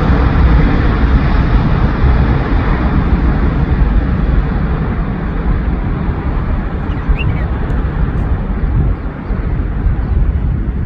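Jet airliner's engines during a departure: a loud rumble with a hiss that slowly fades as the aircraft climbs away.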